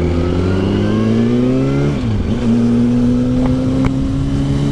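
2008 Yamaha YZF R1 inline-four engine accelerating, its pitch climbing. The pitch drops sharply about two seconds in at an upshift, then the engine pulls steadily in the next gear.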